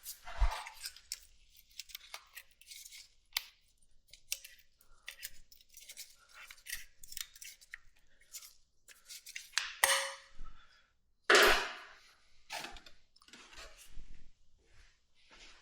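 Metal hand tools and parts clicking and clinking as someone works on a motorcycle's carburetors, with scattered short knocks and a louder scraping rush about eleven seconds in.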